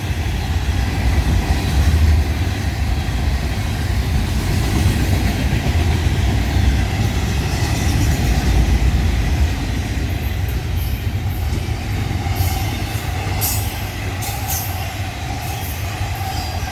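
Florida East Coast Railway freight cars of a rock and manifest train rolling past close by: a steady low rumble of wheels on rail. From about two-thirds of the way through, sharp high metallic clicks and ticks from the wheels join in.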